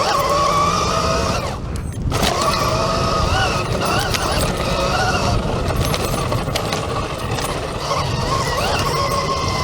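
Electric dirt bike motor whining as it is ridden, its pitch wavering up and down with the throttle, over a heavy wind and tyre rumble. It dips briefly near the two-second mark.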